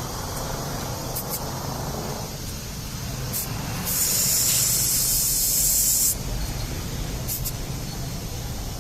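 Compressed air hissing: a few brief spurts, then one sustained blast of about two seconds near the middle, over a steady low hum.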